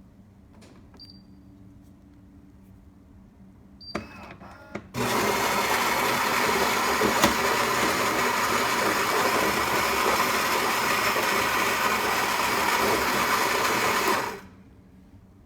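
Two short touch-panel beeps, a few mechanical clicks, then the Philips 3200 Series espresso machine's built-in ceramic burr grinder grinding beans in a loud, steady whir for about nine seconds before cutting off.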